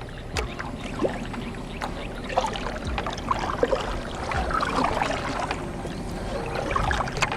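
Water splashing and trickling around a kayak, with scattered small knocks and splashes.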